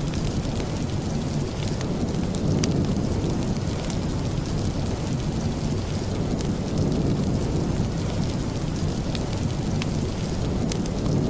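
Steady rain with a deep, even low rumble, mixed with a wood fire in a fireplace that gives a few sharp crackles now and then.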